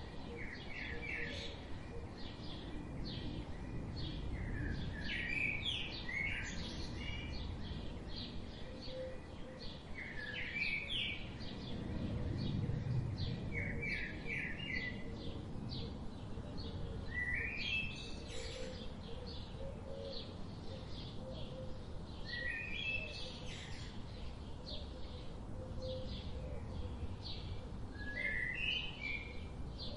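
Birds chirping: short groups of quick rising notes repeated every few seconds, over a steady low rumble that swells briefly about halfway through.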